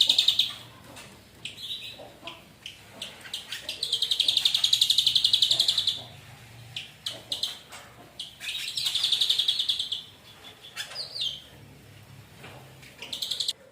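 Ashy drongo singing: fast, high trills about two seconds long, repeated, with short sharp chirps and whistles between them. The song cuts off abruptly near the end.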